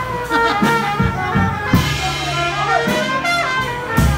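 Live traditional jazz band playing, brass horns carrying a moving melody over drums and bass.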